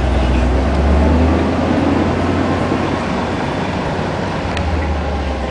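Steady low rumble of engine and road noise from a 1955 Ford Thunderbird being driven.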